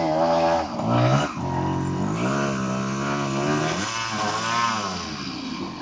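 Enduro motorcycle engine revving under throttle, its pitch rising and falling several times, with steady stretches between.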